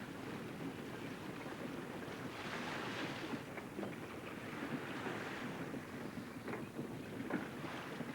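Wind and sea wash of a big racing yacht under sail, water rushing along the hull, swelling twice, about two and a half and five seconds in.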